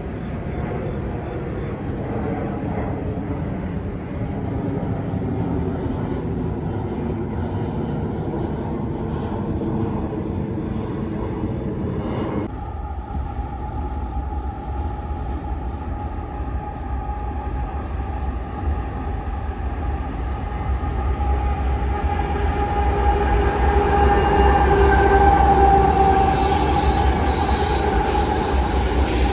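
Train rolling past with a steady, high-pitched wheel squeal over the rumble of the cars. The sound changes abruptly about twelve seconds in, and the squeal grows louder in the last few seconds.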